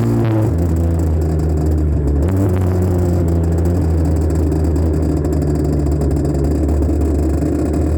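Honda CR80R's 80cc two-stroke single-cylinder engine running while ridden, heard through a phone on a mount on the bike. Its pitch drops about half a second in, rises a little about two seconds later, then holds steady.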